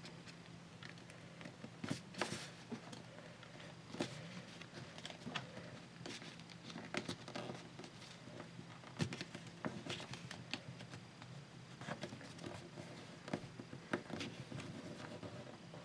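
Sheet of paper being handled, folded and creased: faint, irregular crinkles and sharp little taps, over a steady low hum.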